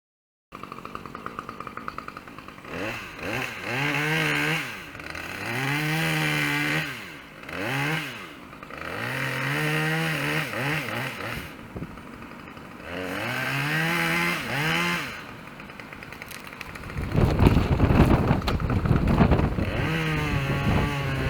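Two-stroke chainsaw idling and being revved up and let back down about six times, each rev a quick rise and fall in pitch. Near the end comes a louder, rougher stretch of noise with the engine still under it.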